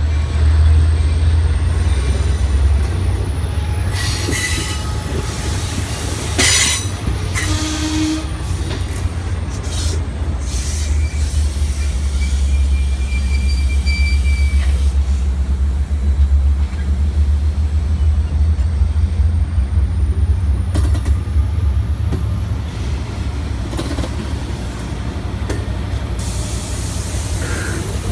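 Diesel-hauled Long Island Rail Road train of bilevel coaches rolling past with a steady low rumble and occasional clanks from the wheels and cars. A faint wheel squeal is heard about halfway through.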